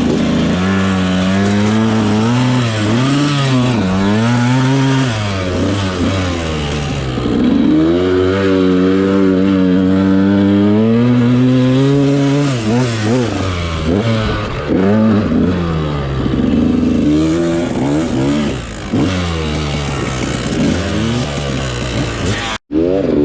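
Dirt bike engine revving up and down as it is ridden through sand, the pitch rising and falling with throttle and gear changes, held steadier and higher through the middle. It cuts out for a moment near the end.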